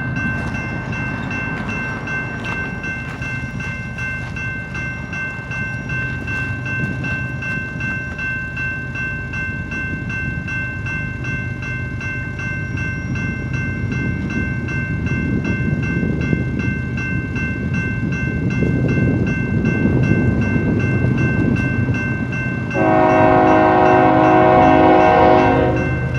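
BNSF stack train's diesel locomotives approaching, a low rumble that grows louder, with a steady high tone running over it. Near the end the lead locomotive's horn sounds one blast of about three seconds.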